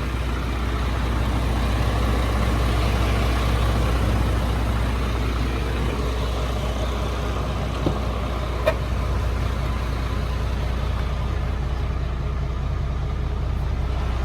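A 7.8-litre Isuzu diesel engine in a medium-duty GMC C6500 truck idling steadily with a low drone, with one sharp click partway through.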